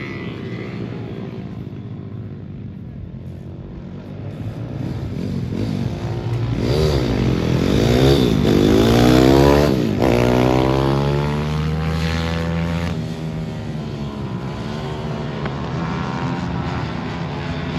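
Motorcycle engine running steadily, revving up and down twice near the middle, where it is loudest, then settling back to a steady drone.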